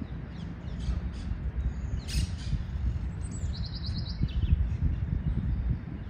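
Birds calling in short chirps, with a louder call about two seconds in and a quick trill of rapid notes around the middle, over a steady low rumble.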